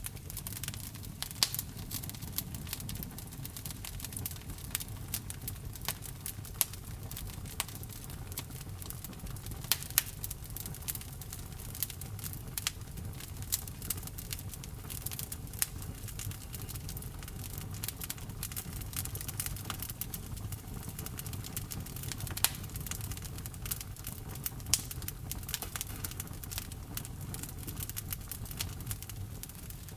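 Wood fire in a fireplace crackling: irregular sharp pops and ticks over a low steady rumble, with a few louder pops standing out, including one about ten seconds in.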